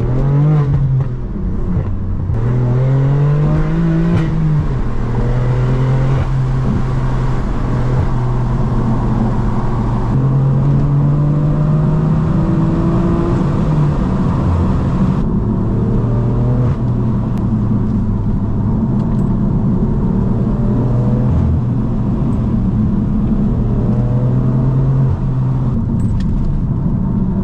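BMW M4 F82's twin-turbo inline-six running under way, its exhaust note climbing with the revs and dropping back sharply at each manual gear change several times. In the second half the note holds steadier at a cruise.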